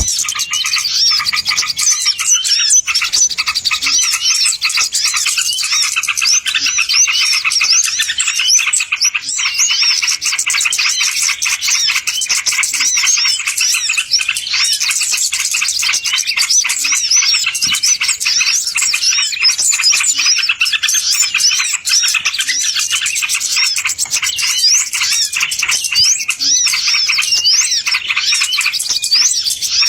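A dense chorus of many small birds chirping and twittering at once: a continuous, overlapping stream of quick high calls. This is a bird-lure (pikat) recording, made to draw wild birds in.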